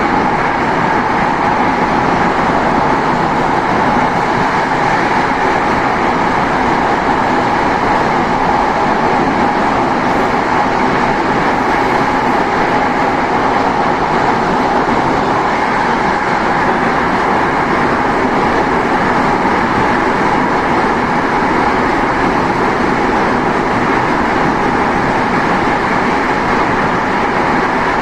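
Saitama Railway 2000 series electric train running at steady speed, heard from inside the front car: continuous wheel-on-rail rumble and running noise, even throughout.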